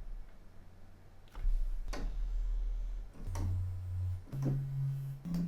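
Found-sound samples played back through a software sampler as a string of low, droning notes, each beginning with a click, stepping up in pitch from one note to the next.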